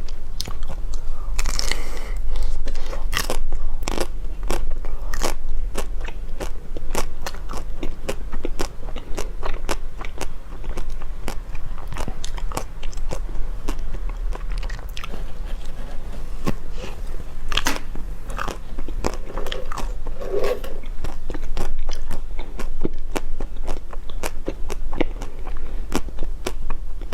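Close-miked eating: rapid, irregular crunching and chewing of food, with many sharp crunchy bites, over a steady low hum.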